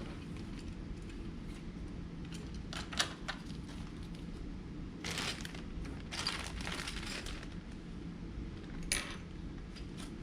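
Small plastic model-engine parts and tiny screws being handled and screwed together: scattered light clicks and short rattles, with a sharp click about three seconds in and another near the end, over a steady low hum.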